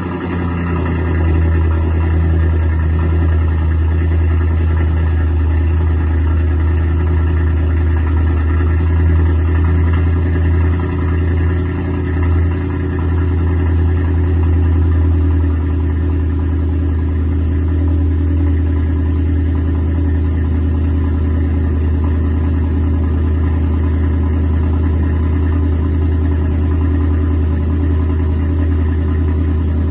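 A Volvo S80's 4.4-litre V8 idling just after a cold start, with a low, steady note. It wavers briefly about ten to thirteen seconds in, then settles a little quieter from about sixteen seconds on, the cold idle easing down.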